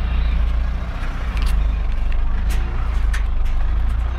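A heavy vehicle's engine running with a steady low rumble as it is waved in to be loaded, with a few faint knocks.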